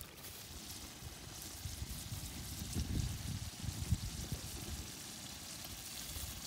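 Paneer cubes frying in oil in an iron kadai over a wood fire, a steady sizzle with fine crackling. Dull low thumps come and go in the middle, the loudest about four seconds in.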